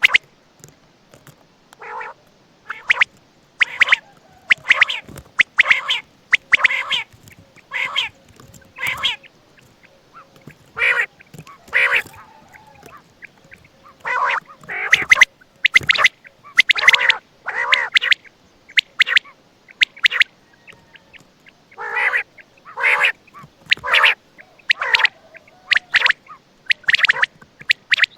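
Quail calling over and over: short calls roughly once a second, with a couple of brief pauses.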